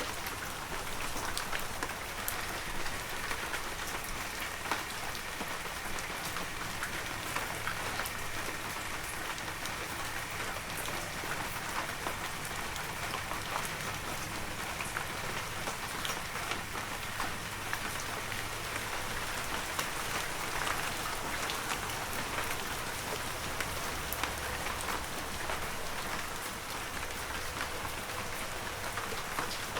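Heavy rain falling steadily, a dense even hiss with many close drops pattering and ticking on surfaces.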